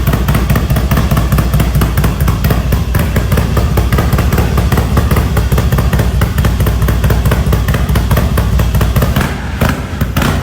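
Custom Harley-Davidson motorcycle engine running loud and steady, with a rapid, even pulsing of firing strokes. It eases a little near the end.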